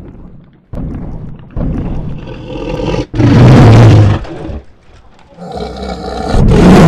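Sound-effect T-Rex roars: a loud roar about three seconds in and another near the end, with quieter roaring between.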